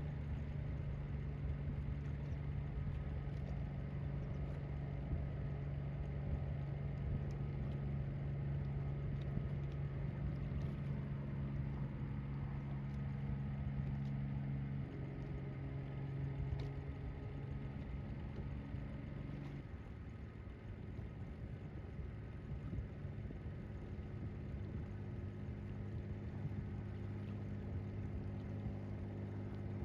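A fishing boat's inboard marine engine running steadily. Its pitch steps down about halfway through and again shortly after.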